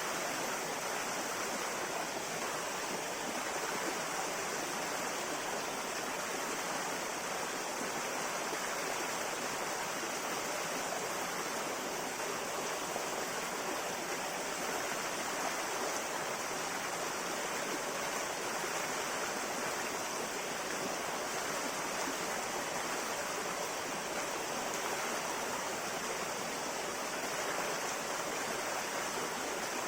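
A river running steadily over rocks, a constant rushing and burbling of flowing water.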